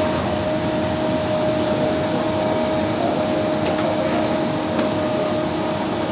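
HO-scale model train running on the layout: a steady hum with one held tone, and a few faint clicks between about three and five seconds in.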